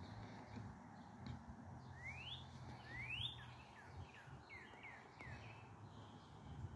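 Faint songbird calls: two rising chirps, then a quick run of short falling notes, over a low steady hum.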